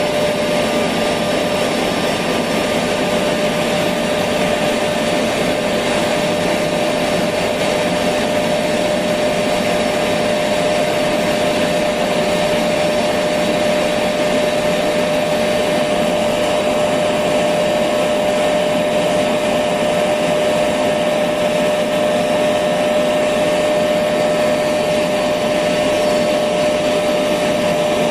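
Electric vacuum cleaner running steadily: an even rushing of air with a constant motor whine, no change in speed.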